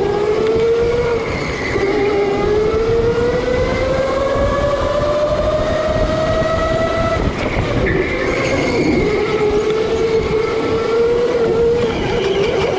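Electric go-kart motor whining under a steady rush of noise, its pitch climbing slowly as the kart gathers speed, then dropping about seven seconds in and holding level.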